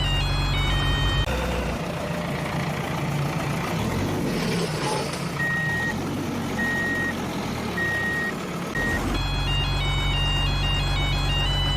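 A truck's reversing alarm beeping four times at an even pace over a steady vehicle rumble. Bright background music plays at the start and comes back near the end.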